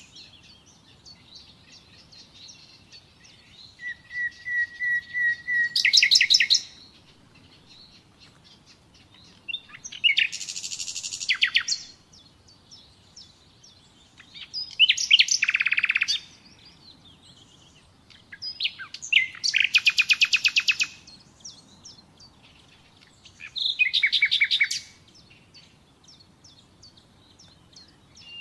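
Nightingale singing in separate phrases of rapid repeated notes, one opening with a long steady whistle, with pauses of a few seconds between phrases. Five phrases are heard.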